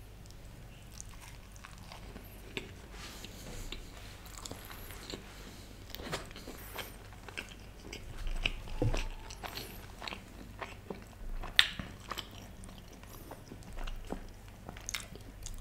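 Close-miked mukbang chewing of a mouthful of rice topped with fried onions: wet mouth sounds with scattered sharp clicks, the sharpest about twelve seconds in.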